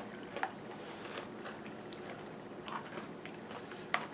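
Close-up chewing of yogurt with crunchy granola, with scattered small clicks, and a metal spoon scraping and tapping in the bowl; the sharpest tap comes near the end.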